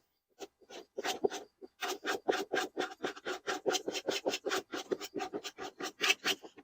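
Fast, rhythmic back-and-forth scraping strokes, about six a second, on the body of a kids' Lightning McQueen ride-on car, working stubborn sticker remains off. The strokes begin after a brief pause at the start.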